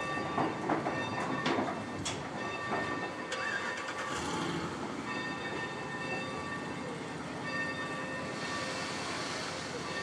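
A train rolling on the rails, its wheels clicking over rail joints, with several sharp clicks in the first few seconds and thin steady high tones from the running gear.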